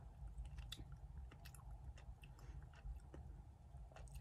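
Faint chewing: soft, scattered mouth clicks of someone eating a dark chocolate truffle.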